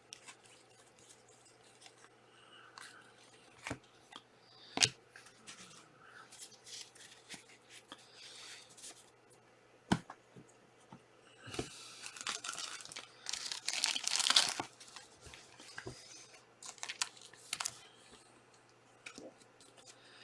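Panini Prizm trading-card packs being handled and torn open: wrappers crinkling, with scattered clicks of cards being handled and one longer, louder tear about two-thirds of the way in.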